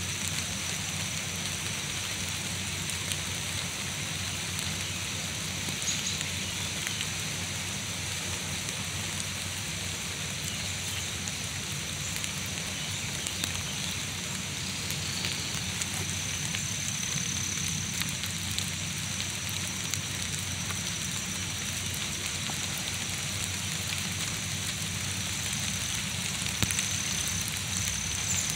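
Steady rain falling through the woodland trees, a constant hiss dotted with scattered drop ticks. A thin, steady high-pitched whine runs underneath.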